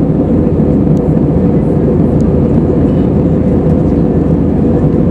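Steady, loud cabin drone inside an Airbus A320neo, from its CFM LEAP-1A engines and the rush of air past the fuselage, heavy in the low end with a faint steady hum on top.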